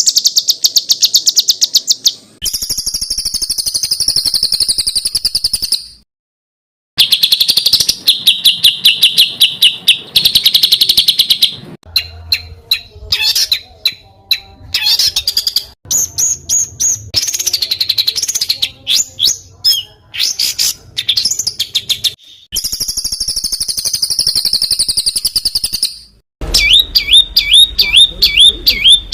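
Small songbirds singing in a series of spliced recordings: very fast, high-pitched trills, chattering runs of clipped notes and repeated slurred whistles, each clip cut off abruptly. This is rapid, harsh 'tembakan' song used as masteran, a song-tutor track for training competition songbirds.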